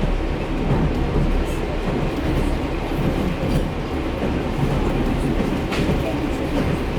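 Passenger train running along the track: a steady low rumble of wheels on rails, with a few short clicks, louder around six seconds in.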